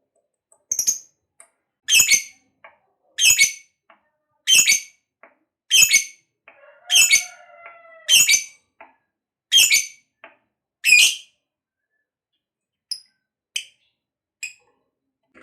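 Lovebird giving a run of about eight loud, shrill, short calls, one every second or so, followed by a few fainter short calls near the end.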